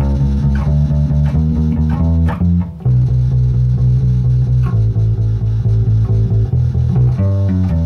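Electric bass guitar playing a blues bass line in E, plucked notes in a steady rhythm with a short break about three seconds in.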